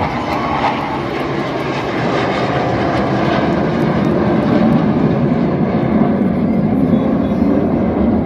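Jet aerobatic display aircraft flying past with a continuous jet engine rush, growing louder about halfway through.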